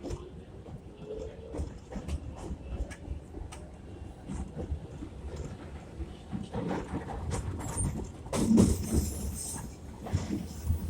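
R62A subway car under way: the traction motors' whine rises in pitch as the train picks up speed, then the wheels clatter over rail joints. The rattle and clatter grow louder about eight seconds in.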